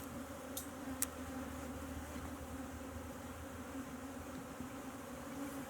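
Honeybees from an open hive buzzing in a steady hum, with two sharp clicks in the first second or so.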